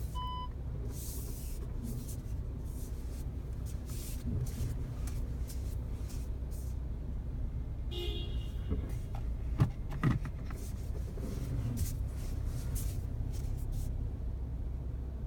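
Volkswagen Passat B8 cabin while driving: a steady low road and engine rumble with scattered light clicks and creaks, and a short beep at the start.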